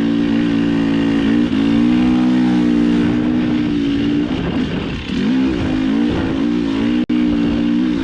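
Dirt bike engine running under way on a trail, holding a steady pitch for about three seconds and then rising and falling as the throttle is worked. The sound cuts out for an instant about seven seconds in.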